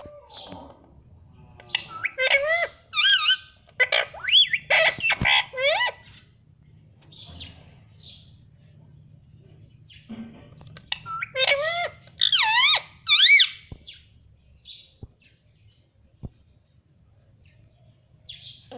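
Pet parrot calling in two bouts of high, wavering chirps and squawks, the first about two seconds in and the second in the middle, with softer single chirps between them.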